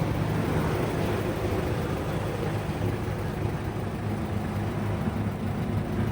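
A steady low mechanical drone with an even background hiss.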